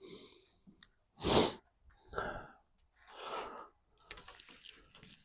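A person's breaths: short, noisy exhales about a second apart, one about a second in much louder and sharper than the rest, then a faint crackling near the end.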